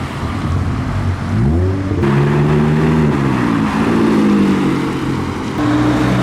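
A car engine revving as it pulls along: its pitch climbs steeply about a second in, then holds at a steady note with a slow rise and fall, and a second steady engine note comes in louder near the end.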